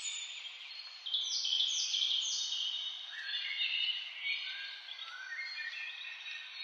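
Several birds chirping and singing at once: overlapping high-pitched calls, some short notes falling in pitch, over a faint steady hiss.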